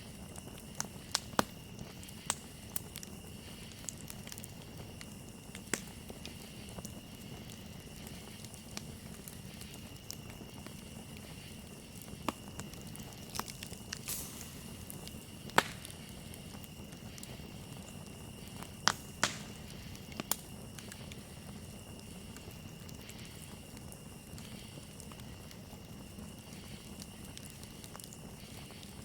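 Wood campfire crackling, with irregular sharp pops, a few close together about a second in and again about two-thirds of the way through. Under it runs a steady high-pitched chirring of crickets.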